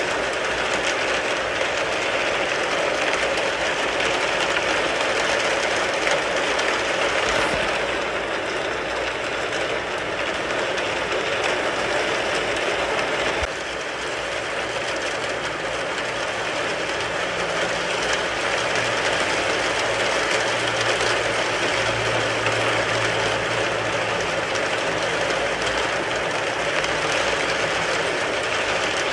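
Steady rain drumming on a car's roof and body, heard from inside the car as a dense, even patter. A faint low hum joins in about halfway through.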